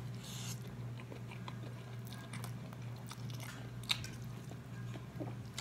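A man chewing a mouthful of Buldak black-bean instant noodles with soft wet mouth smacks and clicks. There is a short slurp as the noodles go in at the start and a sharper click about four seconds in, over a steady low hum.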